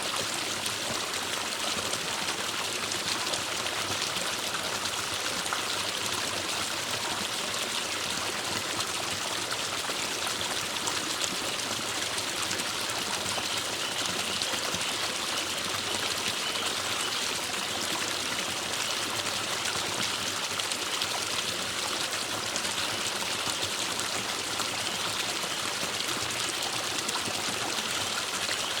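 Forest stream running steadily over rocks, with a continuous rush of flowing water.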